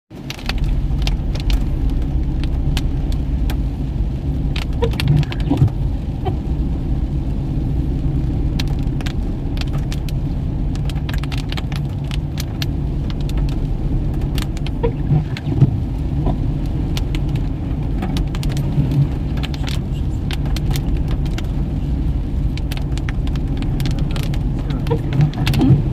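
Toyota Fortuner driving: a steady low engine and road rumble, with irregular sharp taps throughout from heavy rain striking the vehicle.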